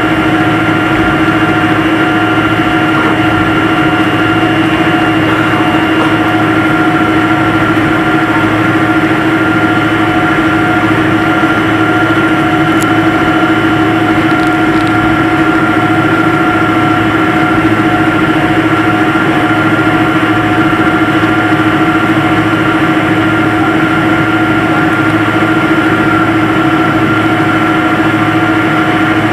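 Steady jet engine and airflow noise heard inside an airliner cabin, a constant loud rush with a steady hum and whine over it.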